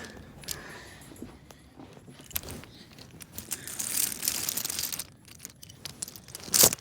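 Small plastic toy trucks and track handled: scattered light clicks and clacks, a stretch of rustling about halfway through, and one sharp clack near the end.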